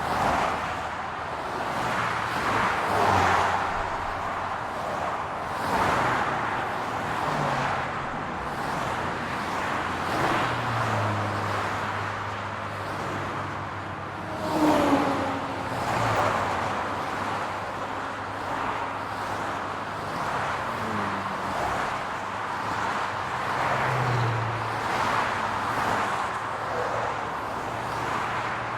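City road traffic: cars passing one after another, rising and fading every few seconds over a steady low engine hum. About halfway through comes one brief, louder, pitched sound.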